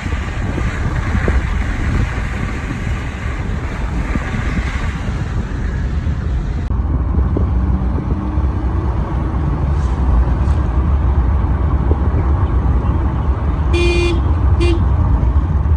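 Steady low rumble of traffic or wind, with a vehicle horn tooting in short beeps near the end: two toots, then a third at the very end.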